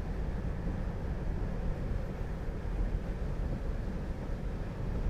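Steady low road and tyre noise heard inside the cabin of a 2020 Tesla Model 3 electric car driving on rain-wet roads.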